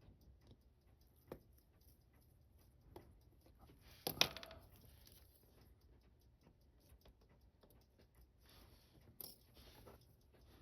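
Faint clicks of small metal watch parts and tools being handled on a bench, with one brief louder clatter about four seconds in.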